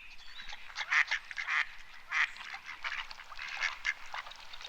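Birds calling: a run of short, overlapping calls, several to the second.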